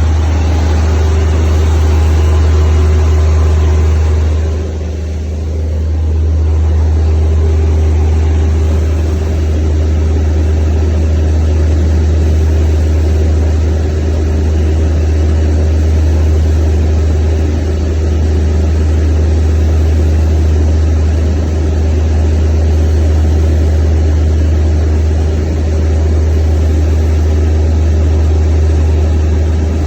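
Natural-gas-fuelled engine running steadily with a low, even drone, now that its shut-off gas supply has been turned back on after a crank-no-start. The level dips briefly about four and a half seconds in.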